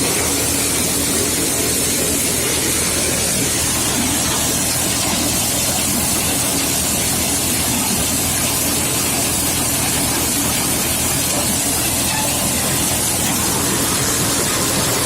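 Tractor running steadily, heard under a loud, even hiss with no change in pace.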